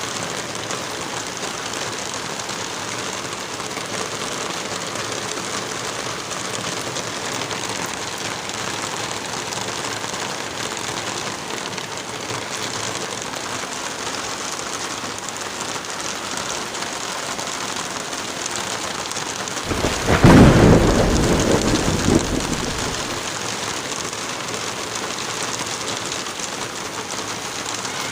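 Steady light rain and wind through forest trees, a continuous even hiss. About twenty seconds in, a loud low rumble starts suddenly and fades out over about three seconds.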